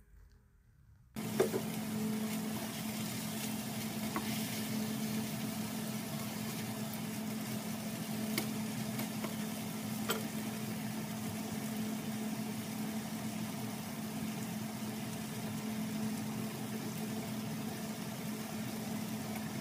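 Shrimp and red and yellow bell pepper pieces sizzling steadily in a frying pan, starting about a second in, with a few sharp pops and a steady low hum underneath.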